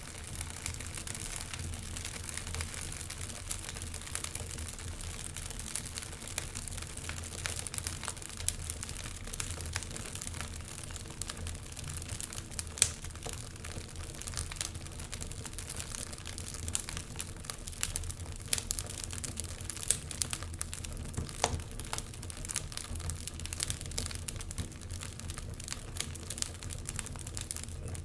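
Wood fire in a fireplace crackling: an irregular stream of small pops and snaps over a low, steady rumble, with one sharper pop a little before halfway.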